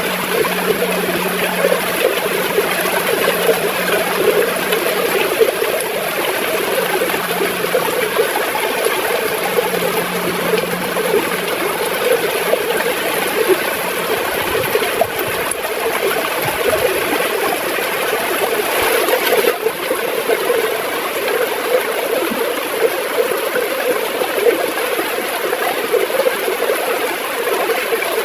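Gurgling river water flowing steadily, a dense churning rush with no breaks.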